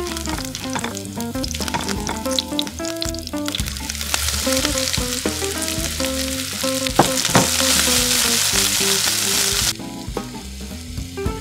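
Sizzling of hot oil in a nonstick wok, first with spring onion roots being stirred with a spatula, then louder once sliced okra is added and stir-fried, with a couple of sharp clacks in the middle. The loud sizzle drops off suddenly near the end, over soft background music.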